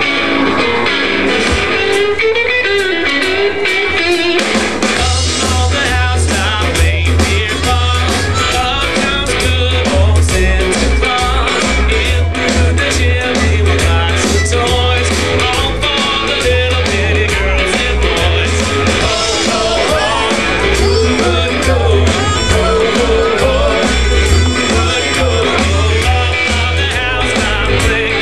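Live band playing an upbeat rock-and-roll song with singing and guitar over a steady drum beat; a heavy bass line comes in about five seconds in.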